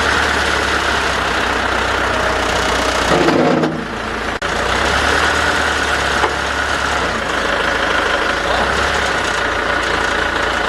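An engine idling steadily with a low rumble. A brief higher sound comes about three seconds in, followed by a momentary break.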